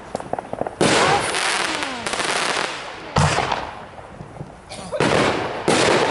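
Aerial firework shells bursting: three loud booms about two and a half seconds apart, each trailing off, with crackling around them.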